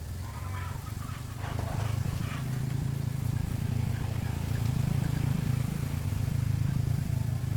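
An engine running with a steady low drone that grows louder over the first two seconds, then holds.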